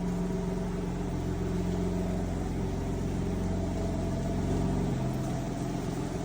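Car engine running steadily, a low even hum with a slight shift in pitch about five seconds in.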